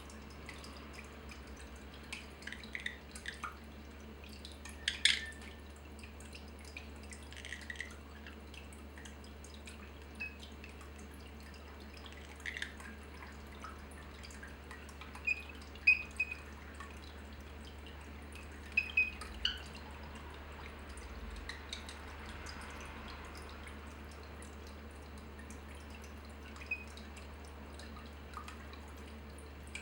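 Water dripping in irregular drops, some with a short high plink, over a low steady hum.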